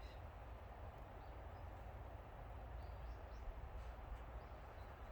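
Quiet outdoor ambience: a steady hiss with a low rumble underneath, and a few faint, short bird chirps scattered through it.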